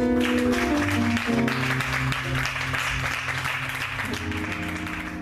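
Church band instrumental music, held chords over a bass line, with the congregation clapping and applauding; the applause thins out near the end.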